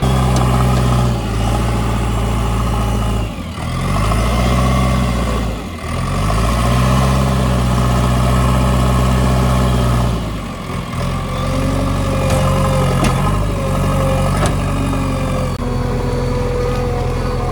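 JCB 3DX backhoe loader's diesel engine running loud and steady as the machine drives. Its revs dip and climb back twice, about three and six seconds in, and ease off about ten seconds in.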